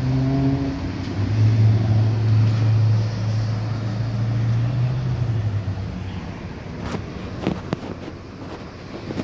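Low, steady hum of a vehicle engine running, fading out after about six seconds, followed by a few light knocks near the end.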